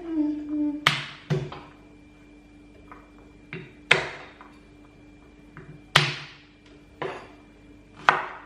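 Knife chopping on a cutting board: single sharp strikes at an uneven pace, roughly one a second, as garlic or shallots are cut up for a spice paste.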